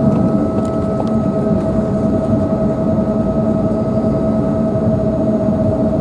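Embraer 190's GE CF34 turbofan engines heard from inside the passenger cabin: a steady engine whine over a constant low rumble.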